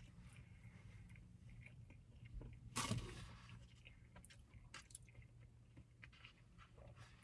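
Faint close-up eating sounds of a person spooning and chewing broccoli cheddar soup: soft chewing and small mouth clicks over a low steady hum, with one brief louder noise about three seconds in.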